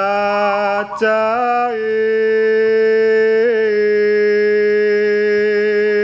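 Male voice singing a Javanese kidung, unaccompanied, holding one long drawn-out note. There is a short break about a second in and small ornamental turns in pitch around one and a half and three and a half seconds in.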